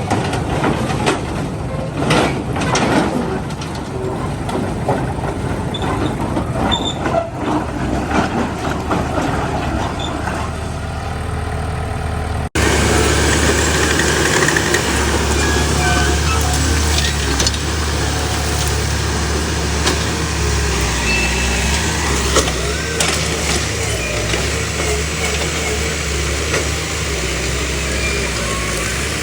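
Small bulldozer's diesel engine running, with scattered metallic knocks in the first half. An abrupt cut about halfway gives way to a steadier, deeper engine drone.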